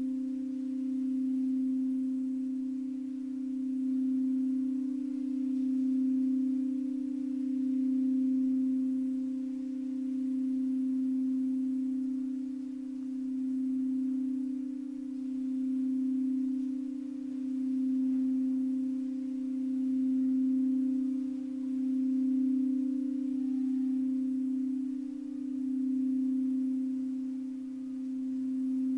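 Singing bowl held in a long sustained tone, one low steady note with a faint higher overtone, its loudness slowly swelling and fading about every two seconds.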